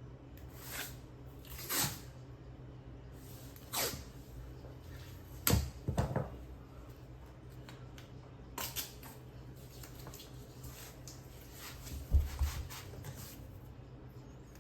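Scattered clicks and knocks of tools and materials being handled during caulking work, about eight in all, irregularly spaced and loudest about two thirds of the way in. A steady low hum runs underneath.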